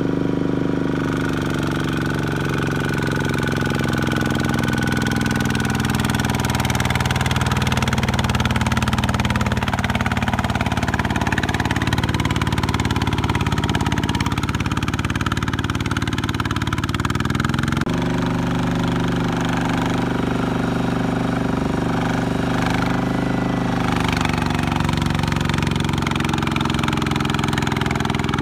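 Single-cylinder diesel engine of a two-wheel mini tractor (power tiller) running steadily under load. Its note shifts a little as it works, with an abrupt change in the engine note about two-thirds of the way through.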